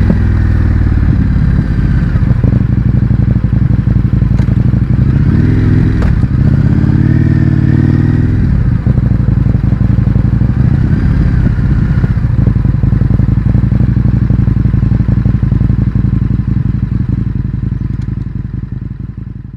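Indian FTR 1200's 1203 cc V-twin running through an Akrapovič exhaust with the baffles removed, a steady engine note that rises and falls briefly a third of the way in and fades out near the end.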